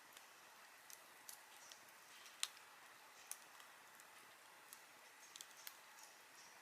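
Wood campfire crackling faintly over a soft hiss, with scattered small snaps and one sharper pop about two and a half seconds in.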